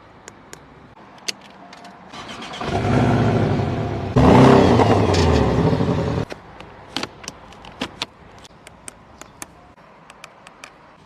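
Porsche 718 Boxster engine running loud. It builds up about two seconds in, gets louder still about four seconds in, then cuts off abruptly after about six seconds. A scatter of sharp clicks and ticks follows.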